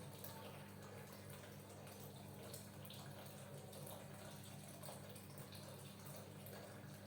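Oiled hands pressing and circling over skin and neck muscles: faint, slick, wet rubbing sounds over a steady low hum.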